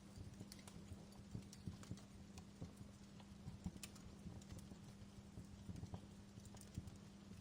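Wood fire crackling: irregular small pops and snaps over a faint hiss, with a low steady hum underneath.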